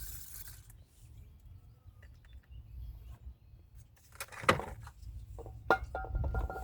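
A short hiss of aerosol brake cleaner spraying, at the very start. A few seconds later come two sharp metallic clinks, about a second apart, as brake parts or tools are handled.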